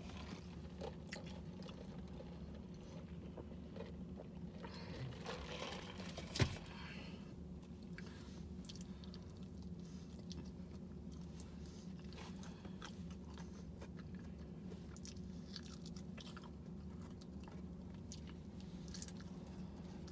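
Close-up chewing and biting into crispy fried chicken, many small crunches of the fried coating, with one sharper crunch about six seconds in.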